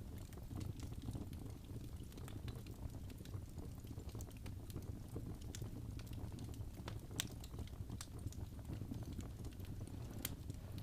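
Wood fire burning in a fireplace: a steady low rumble of the flames with irregular crackles and a few sharper pops, the loudest about seven seconds in.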